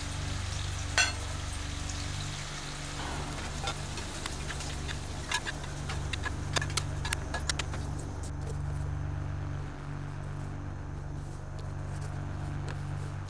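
Food frying in hot oil, a sizzling hiss with scattered sharp pops and crackles over a steady low hum. The sizzle and pops die down about eight seconds in, leaving mostly the hum.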